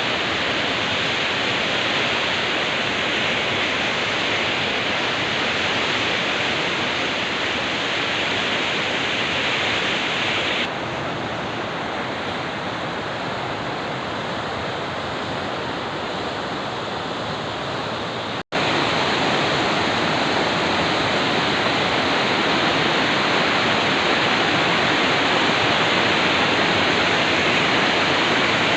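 River water rushing steadily, with an abrupt change in tone about ten seconds in and a momentary dropout a little past halfway where clips are joined.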